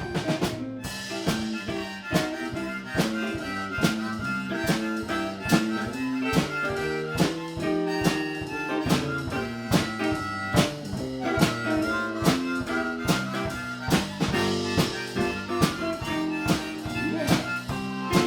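Live blues band playing an instrumental passage between sung verses: a drum kit keeps a steady beat under a walking bass line and a lead instrument holding long notes.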